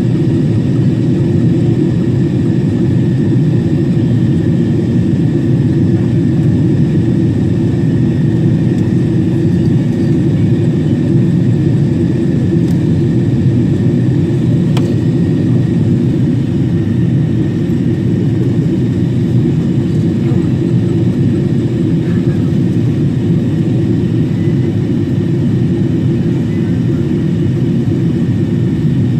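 Boeing 777-300 in flight, heard as a steady drone of engines and rushing air with a faint constant high whine.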